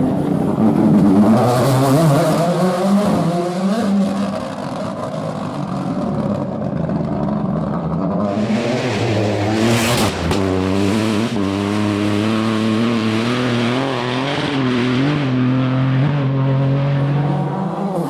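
Rally car engine running hard through a stage, its pitch rising and falling with throttle and gear changes. A burst of hiss joins it about a second in and again near the middle.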